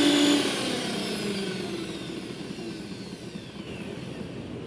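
Philips grinder's electric motor running, then switched off about half a second in and spinning down, its whine falling in pitch as it slows.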